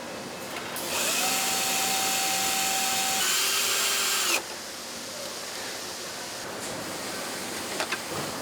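A power tool runs for about three and a half seconds with a high whirring hiss, its pitch stepping down partway through, then cuts off abruptly. A few sharp clicks follow near the end.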